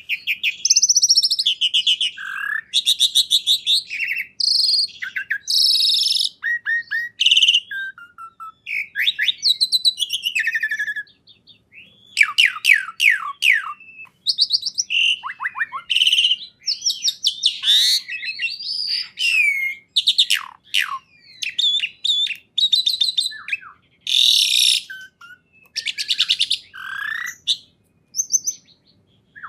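A songbird singing a long, varied song of rapid trills, quick repeated notes and sweeping whistles, with short pauses about eleven seconds in and near the end.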